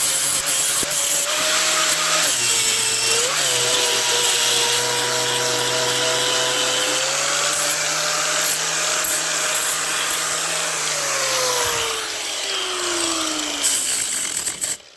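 Handheld power tool cleaning a cast bronze anvil: a steady motor whine over a harsh abrasive hiss of metal being ground. The whine dips briefly under load about two seconds in, then winds down in pitch and stops near the end.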